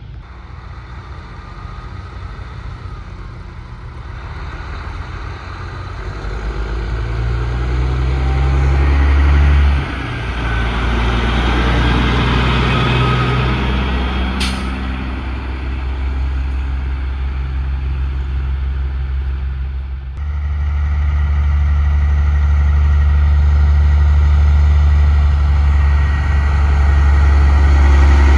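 Diesel semi-truck engines running close by, building up and dropping off sharply about ten seconds in. A brief air-brake hiss comes near the middle, and a heavy engine comes in loud again about twenty seconds in.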